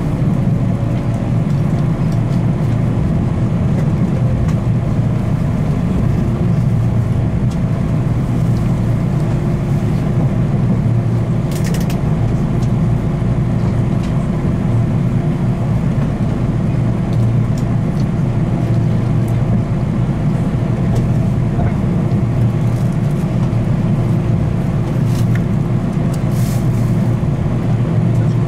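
Train running noise heard inside a passenger car: a steady low rumble of wheels and running gear with a faint steady hum.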